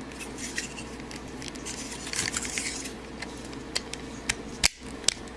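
Plastic model-kit parts being handled and pressed together, with faint rubbing and scraping and several sharp small clicks in the second half, as a tight-fitting back unit is worked onto the assembled figure.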